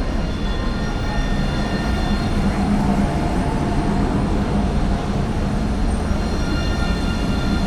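Passenger train running alongside the platform: a steady low rumble with a few faint, steady high tones above it.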